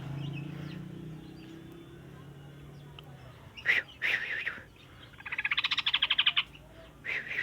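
Sooty-headed bulbul calling: a couple of short sharp notes and a warbling phrase, then a rapid rattling run of quick repeated notes lasting about a second, and another call near the end. A low steady hum sits under the first few seconds.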